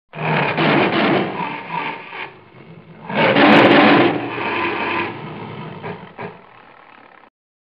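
Tiger roaring: two long roars, the second about three seconds in and the loudest, then trailing off more quietly before it stops suddenly.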